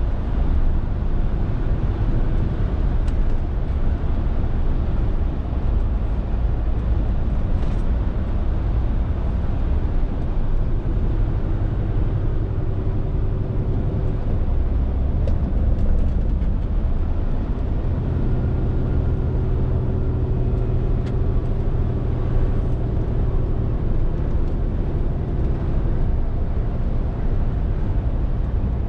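Scania R450 lorry's 13-litre six-cylinder diesel running steadily under way, with a constant low rumble of engine and road noise; the engine note shifts a few times as engine speed changes.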